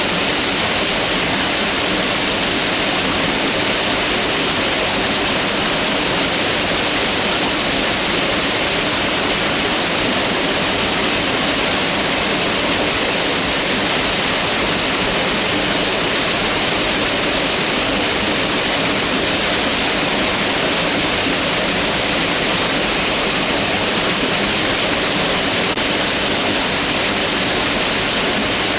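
Mountain river rushing steadily over rocks: a dense, unbroken water noise.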